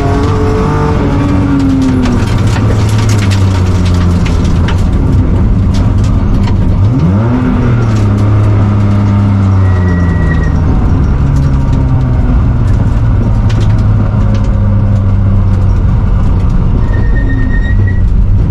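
BMW E36 rally car's engine under hard load on a gravel stage: its pitch drops about two seconds in, then climbs sharply near the middle and holds high. Sharp clicks of gravel hitting the car come through the first half.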